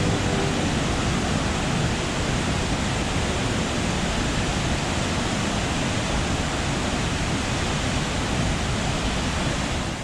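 Steady roar of the Pigeon River High Falls, a large waterfall, heard up close; it cuts off suddenly at the end.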